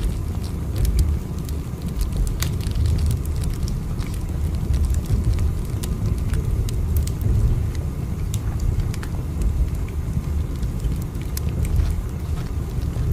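Steady low rumble of a moving train heard from inside a carriage, with faint scattered clicks and crackles over it.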